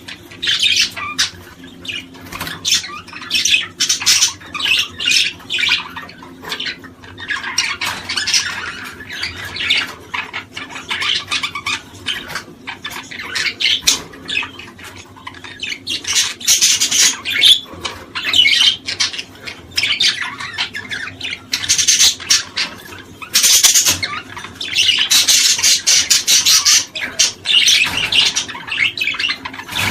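A flock of small cage birds chattering and squawking, many short overlapping calls with no pause, growing denser in the second half.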